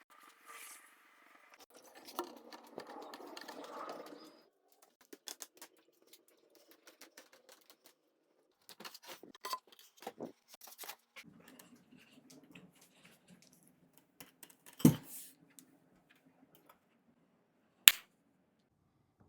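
Scattered clicks, taps and knocks of things being handled, with a brief scraping stretch about two seconds in, one louder knock about fifteen seconds in and a sharp click near the end.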